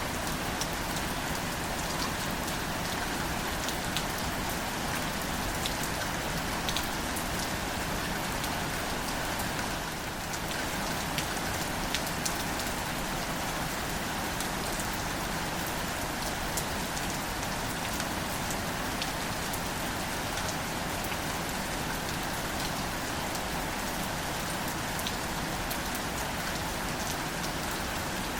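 Steady, gentle rain falling on wildflowers and foliage, an even hiss with scattered close drop ticks.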